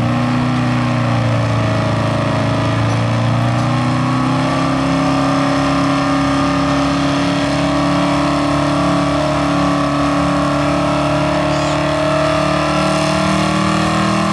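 Four-wheel-drive pulling truck's engine running at high revs under load as it drags the weight sled. The pitch dips briefly at the start, then climbs slowly and holds steady.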